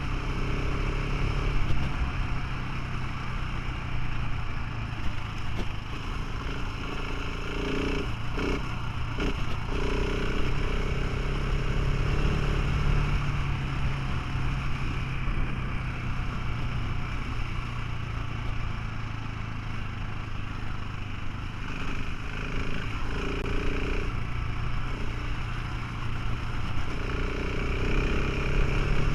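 Motorcycle engine running steadily under way, with wind and road noise; the engine note breaks briefly a few times about eight to ten seconds in.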